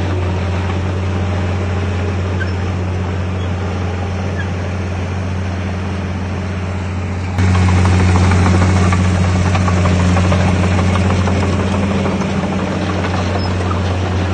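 Diesel engine of heavy earthmoving machinery running with a steady low drone, which turns abruptly louder and harsher about seven seconds in.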